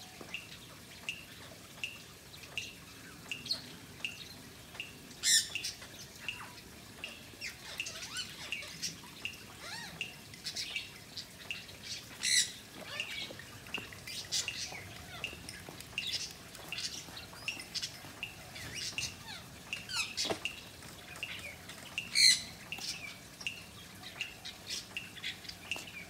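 Birds chirping: one short, high chirp repeats evenly just under twice a second, while other chirps come irregularly and three louder sharp calls stand out.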